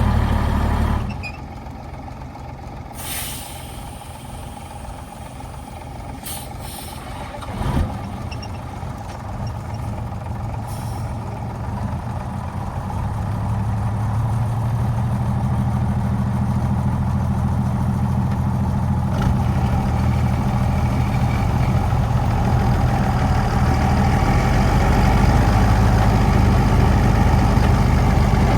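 Old truck's engine running. About a second in, its sound drops away sharply, and a few short hisses and a knock follow. Over the second half the engine builds back up to a steady run.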